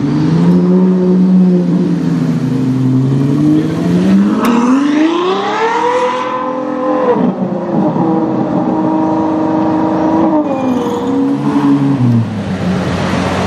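Ferrari FF's V12 engine accelerating hard: its pitch climbs steadily to a peak about six seconds in, drops sharply, holds a high steady note, then falls and picks up again near the end.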